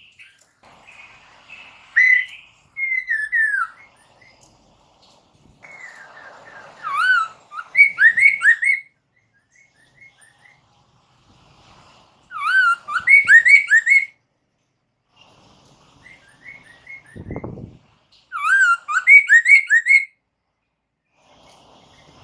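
Poksay mandarin (hwamei laughingthrush) singing in loud bursts of rapid, repeated rising whistled notes, with pauses between the phrases. A short low thump comes about three-quarters of the way through.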